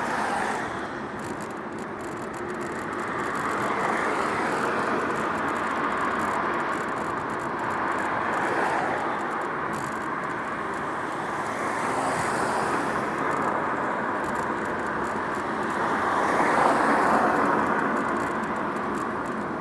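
Road traffic passing close by, several cars going past in turn as rising and falling swells of tyre and engine noise, the loudest near the end.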